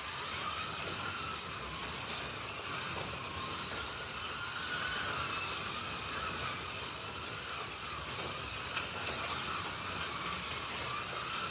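Slot cars running on a track: the small electric motors whine steadily over a hiss, their pitch wavering up and down as the throttle changes.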